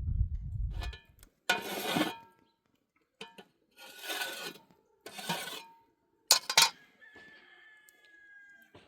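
Metal dishes being handled: three scraping passes with a ringing edge, then two sharp clinks about six and a half seconds in, after which a dish rings on with a single note that sinks slightly as it fades.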